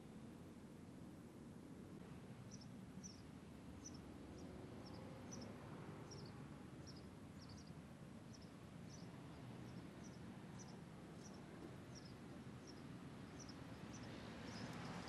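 Faint outdoor ambience with a low steady rumble, over which a small bird chirps repeatedly, a short high cheep a little under twice a second.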